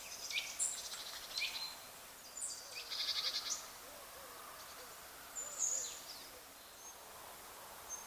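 Small birds chirping: a string of short, high, downward-sweeping calls, with a quick rattling trill about three seconds in, over a faint steady outdoor hiss.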